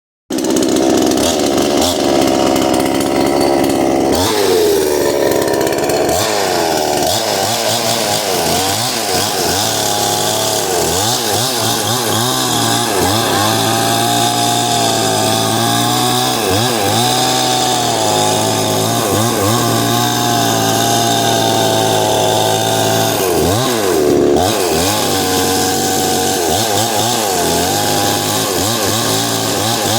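Chainsaw engine running hard, its pitch dipping and climbing back again and again as it bogs down in the cut and revs up.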